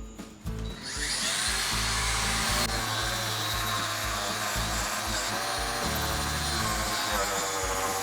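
Angle grinder with a flap disc, starting about a second in and running steadily as it grinds thick body filler off a steel trunk lid panel. Background music plays underneath.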